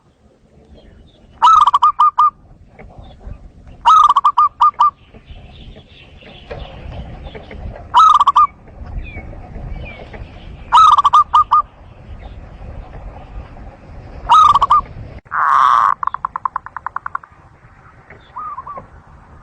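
Zebra dove (perkutut) cooing: short phrases of quick, repeated notes come every few seconds. Near the end a longer phrase trails off in a run of fast clicks.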